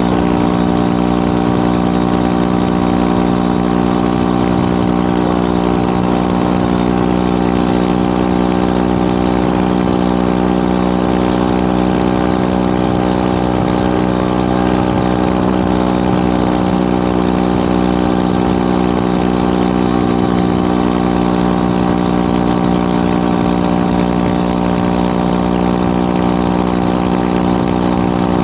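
Yamaha WR250R's single-cylinder engine exhaling through an FMF PowerCore 4 muffler, running steadily at one unchanging pitch for the whole stretch.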